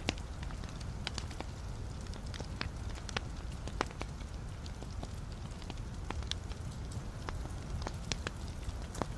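Wood fire in a fireplace crackling: irregular sharp pops and snaps, a few a second, over a steady low rumble of the flames.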